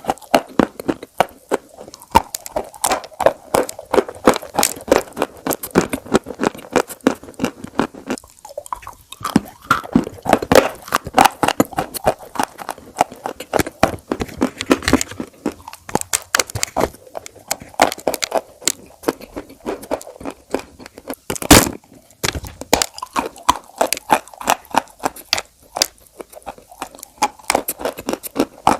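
Close-up crunchy chewing and biting of crisp food: a dense run of rapid crackling crunches, with one especially loud crunch about two-thirds of the way through.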